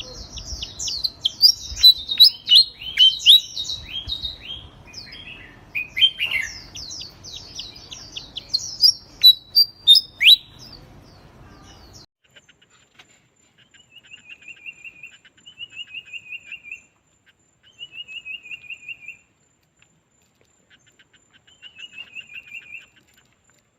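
Songbird chirping and singing in a quick, varied run of notes, then, after an abrupt change about halfway through, a bird singing a rapid trill of slightly falling notes, repeated four times with short gaps.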